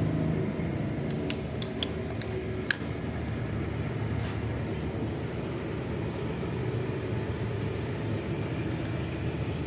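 A few light metallic clicks and taps over a steady low mechanical hum, as a motorcycle's exhaust seal is worked out of the silencer joint at the cylinder head.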